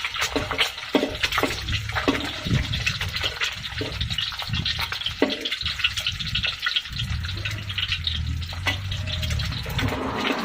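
Hot cooking oil sizzling and crackling steadily with food frying in it, full of small pops.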